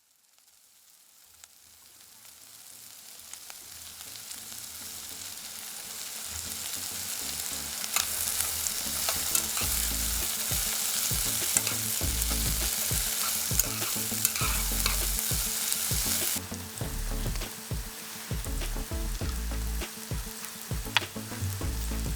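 Food sizzling and frying in a pan, with clicks and low knocks of stirring and handling. The hiss fades in over the first several seconds and turns suddenly duller at about two-thirds of the way through.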